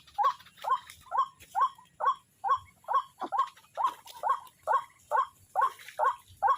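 White-breasted waterhen calling: a steady run of short, pitched notes, about two to three a second.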